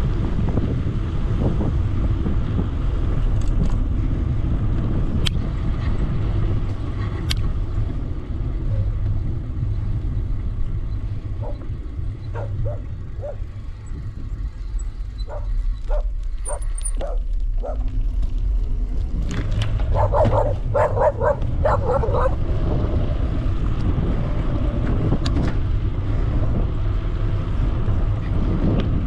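Steady low wind rumble on the microphone of a moving e-bike, with a dog barking repeatedly in two spells in the middle, the second spell louder.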